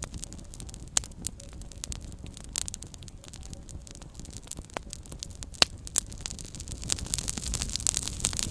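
Small wood campfire crackling: a steady low rumble of flame with irregular snaps and pops of burning wood, a few sharper pops standing out, and the crackling growing denser near the end.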